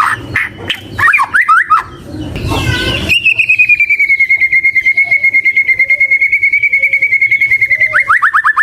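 White-rumped shama (murai batu) singing: a few quick swooping whistled notes, then from about three seconds in a long rapid trill held on one pitch for some five seconds, breaking into fast sweeping notes near the end.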